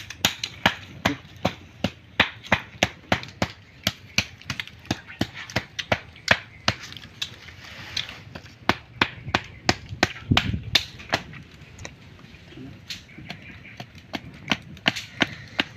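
Repeated sharp chopping strikes, about two or three a second, keeping up an uneven rhythm.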